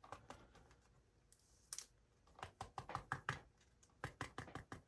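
Faint, irregular light clicks and taps. They are sparse at first and come faster after about two seconds.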